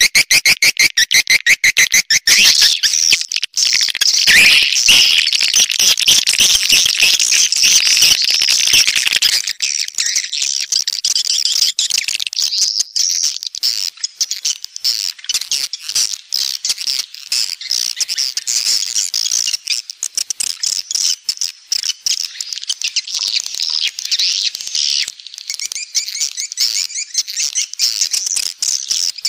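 Swiftlet calls: a dense, high twittering chirp sound of the kind played as a lure ('panggil') to call swiftlets into a nest house. It opens with a fast, even train of clicks that stops about two seconds in.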